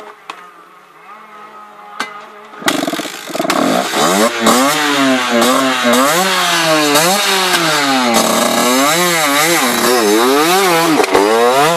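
Enduro dirt bike engine idling faintly, then revved hard about three seconds in. The revs rise and fall over and over, about once a second, until the end.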